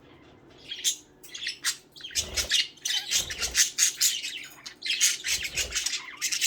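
Pet budgerigars chattering and squawking in quick, high-pitched calls. The calls are sparse at first and come thick and fast from about two seconds in, with a few dull low thumps among them.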